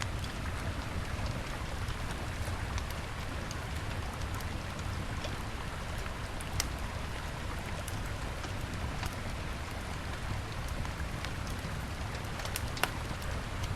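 A wood campfire crackling, with scattered small pops and a sharper snap about halfway and another near the end, over the steady rush of a river.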